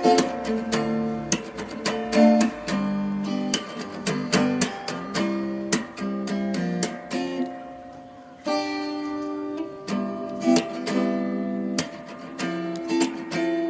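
Acoustic guitar music, plucked and strummed notes in quick succession, with one chord held for a moment about two-thirds of the way through.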